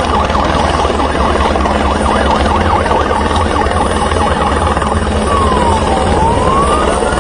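Loud, steady low engine rumble over a dense mass of wavering, wailing tones. About five seconds in, one siren-like wail falls and then climbs again.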